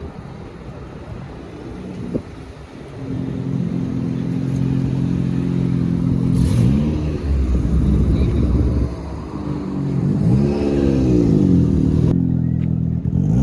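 A car engine idles, then is revved up and let fall back twice, about six and ten seconds in.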